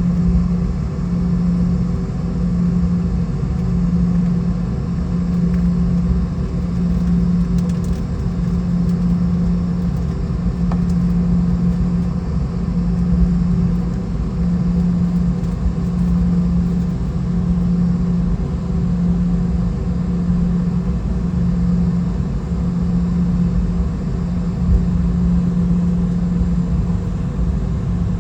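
Cabin noise of a Boeing 717-200 with its rear-mounted Rolls-Royce BR715 engines at idle before takeoff: a steady low rumble with an engine hum that swells and fades evenly about every second and a half.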